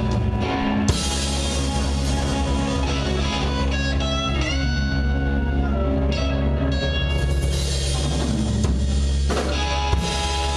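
Live rock band playing, with electric guitar and drum kit: held chords, with a guitar note bent up and held about halfway through.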